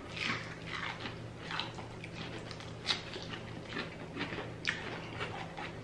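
Close-up chewing of crunchy deep-fried food: irregular crisp crunches and wet mouth sounds, one sharper crunch near the middle.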